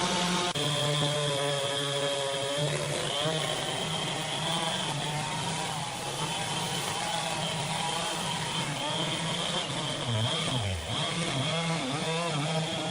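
Engine-driven machinery running steadily, its pitch shifting up and down at times, with a steady high whine above it.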